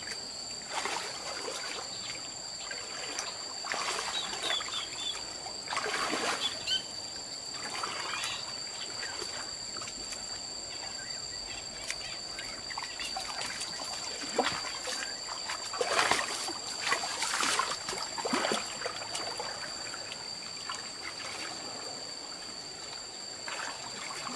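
Water splashing and trickling in irregular bursts, loudest about two-thirds of the way through, over a steady high-pitched insect drone.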